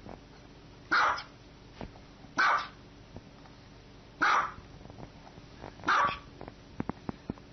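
Small dog barking: four short, sharp barks about one and a half seconds apart.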